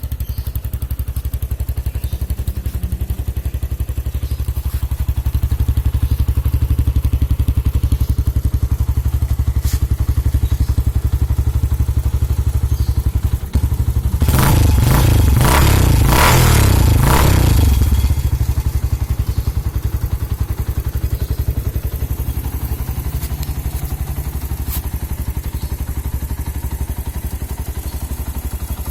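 Yamaha Thunder single-cylinder four-stroke motorcycle engine idling through a gutted-out (bobokan) exhaust, with a deep, steady low beat. About halfway through, the throttle is blipped several times in quick succession for about four seconds, and then it settles back to idle.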